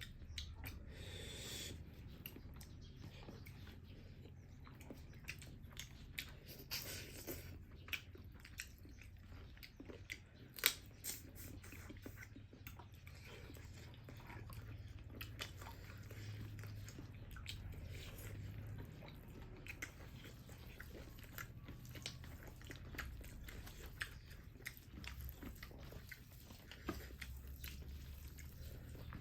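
People chewing and biting food close to the microphone, with many short, irregular crunchy clicks and mouth sounds over a steady low hum.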